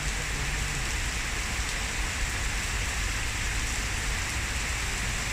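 Heavy rain pouring down, a steady dense hiss of downpour.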